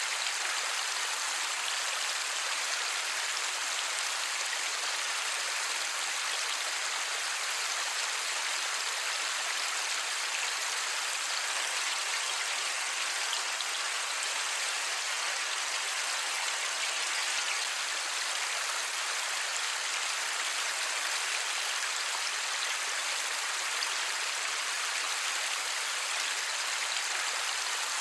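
Light rain falling without thunder: a steady, even hiss of many small drops.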